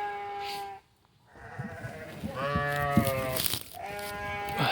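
St Croix hair sheep bleating: three long, steady bleats, the first trailing off under a second in and the next two following a second or two later.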